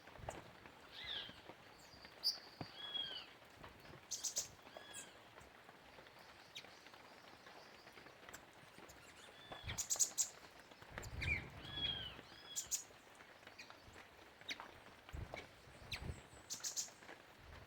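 Several birds at a feeder calling: repeated short arched whistled notes and sharp high chirps every few seconds, with a few soft low thumps in the middle and near the end.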